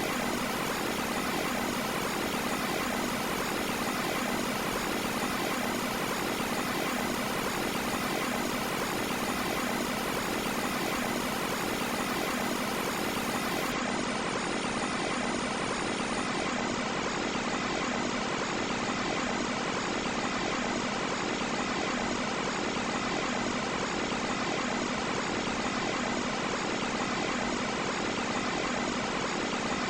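Carrier Round One air conditioner running steadily: an even rush of fan air with a constant hum under it.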